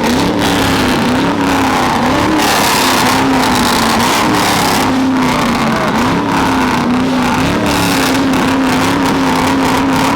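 Truck engine revving hard through a loud exhaust, held at high revs with short dips and recoveries in pitch every second or so.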